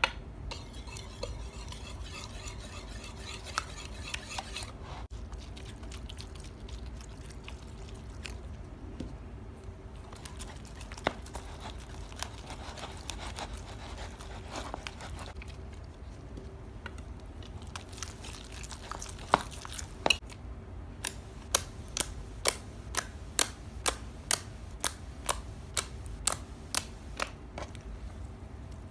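Slime being handled and stirred with soft scraping, then, from about two-thirds of the way in, a quick run of sharp pops at roughly two a second.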